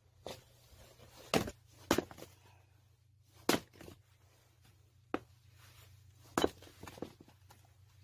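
Hatchet chopping firewood: about seven sharp knocks at uneven intervals, over a faint steady low hum.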